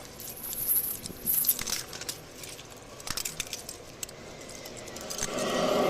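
Handcuffs being put on: a run of sharp metal clicks and jingling as the cuffs ratchet closed around the wrists. A steadier hum swells in near the end.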